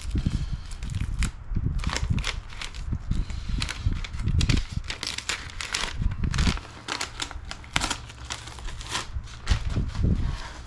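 Masking tape and paper being peeled off and crumpled: a run of irregular crinkling, tearing and crackling sounds.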